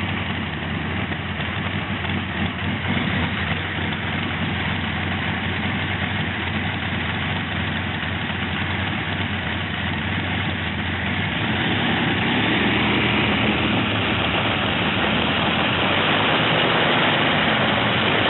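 Tractor engine running steadily at idle, growing somewhat louder about two-thirds of the way through.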